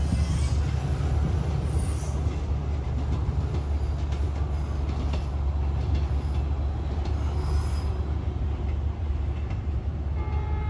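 Approaching train on the Vietnamese railway, a steady low rumble from the locomotive and wheels, with a couple of brief high wheel squeals.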